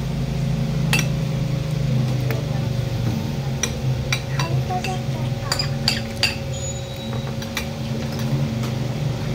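Cutlery clinking against plates during a meal, in a dozen or so sharp, scattered clinks over a steady low hum.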